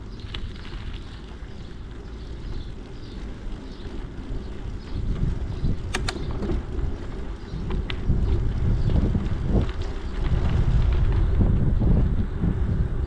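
Wind buffeting the microphone of a camera riding along on a moving bicycle: a low rumble that grows stronger in the second half, with a few sharp clicks about halfway through.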